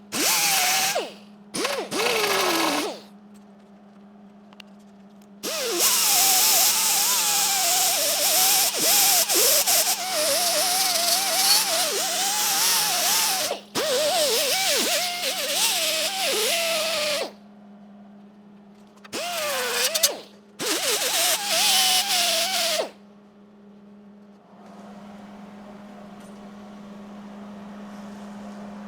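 Handheld power grinder working on the sheet steel of a rusty car door, run in bursts: two short ones at the start, a long stretch in the middle with one brief break, then two more short ones. Its whine wavers in pitch as the load changes, and drops as the motor spins down after a stop. A steady low hum runs underneath.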